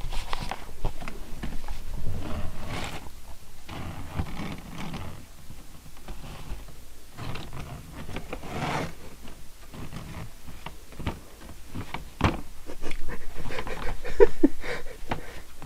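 Paper bag rustling and scraping along the floor in irregular bursts as a kitten with the bag over its head keeps backing up, with a sharp tap about twelve seconds in.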